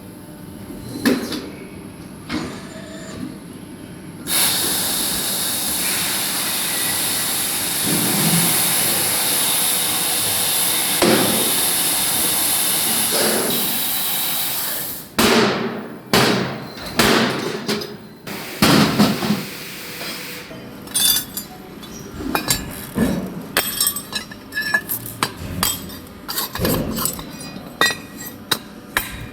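Workshop work on metal valve parts. A steady rushing hiss runs for about ten seconds, then stops suddenly. It is followed by several heavy knocks and then a long run of rapid, sharp metallic clinks and taps.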